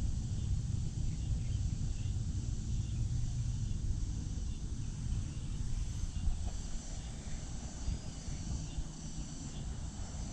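Outdoor park ambience: a steady low rumble on the microphone, with insects droning high and steady, a little stronger in the second half.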